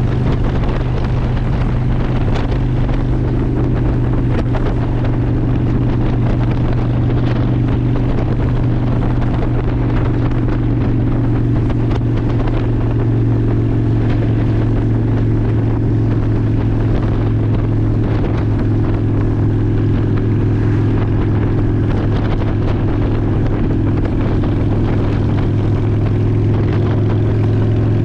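2002 Honda Shadow ACE 750's V-twin engine running at a steady pace under way, with wind buffeting the microphone.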